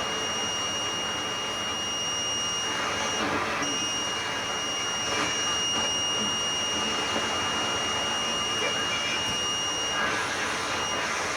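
Static and band noise through a National NC-303 shortwave receiver tuned to an AM signal on the 75-meter band, with a steady high whistle running over the hiss. The whistle drops out briefly about three seconds in and again near the end.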